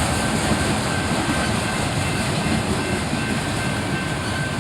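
Train rolling slowly past: a steady rumble of the locomotive and rail cars, with faint steady high-pitched tones over it.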